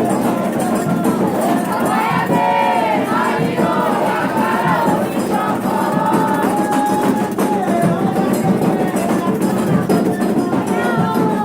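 A crowd singing a chant together to music, with a bell clanking along.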